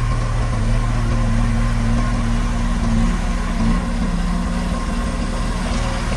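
Diesel engine of heavy construction machinery running steadily, a low hum that holds its pitch.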